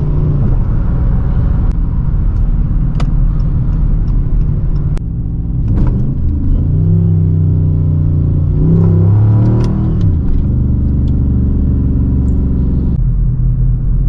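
Dodge Charger R/T's 5.7-litre Hemi V8 running under way, its note shifting in pitch several times, with a rise about nine seconds in and a sudden drop just after.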